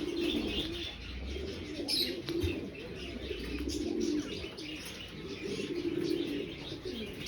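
Domestic pigeons cooing repeatedly in a loft, with high chirps from other birds mixed in.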